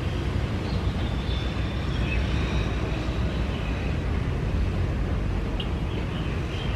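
Jet airliner engines heard from the field: a steady low rumble with a faint high whine above it.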